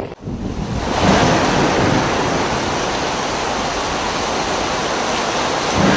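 Loud, steady rush of water from torrential rain or floodwater, building over the first second and then holding even.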